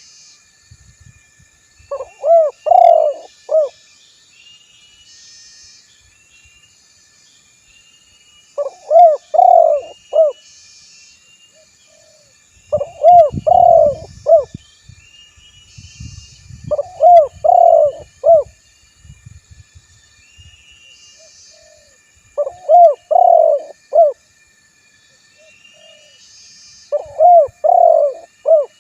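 Spotted dove (tekukur) cooing: six phrases of several quick notes each, repeated every four to six seconds. Faint high twittering runs underneath.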